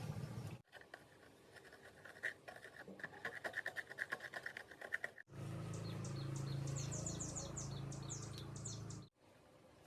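Birds chirping in quick falling notes over a low steady hum. Before this, a faint rhythmic chirring; the sound changes abruptly twice.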